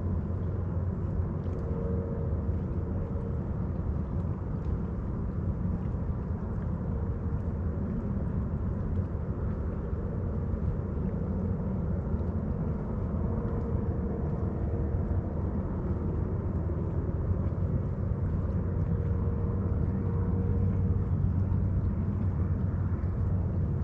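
Steady low engine drone, with a faint higher hum that fades in and out around two seconds in, again from about thirteen to twenty-one seconds, and near the end.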